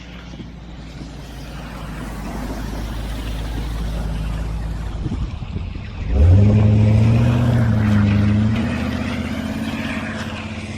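A motor vehicle approaching with rising road noise, then its engine revving up sharply about six seconds in and running loud before easing off a little.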